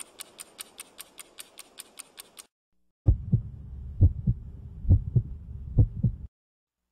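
Rapid, even ticking, about six ticks a second over a faint hiss, stops about two and a half seconds in. After a short gap, a loud deep heartbeat thumps in lub-dub pairs about once a second for three seconds, then cuts off.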